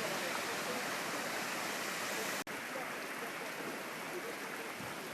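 Heavy rain pouring down, a steady rushing hiss like running water. It cuts out for an instant about two and a half seconds in, then carries on a little duller.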